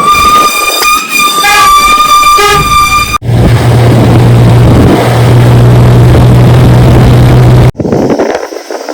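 A vehicle horn sounding for about three seconds: one held tone with a few short extra notes in the middle. It cuts off abruptly into loud, steady vehicle running noise with a low hum, which cuts again near the end.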